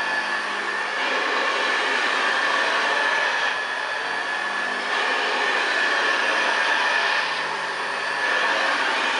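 Hoover Senior 652A upright vacuum cleaner running, a steady motor and fan noise with a high whine; the sound dips slightly and recovers a few times.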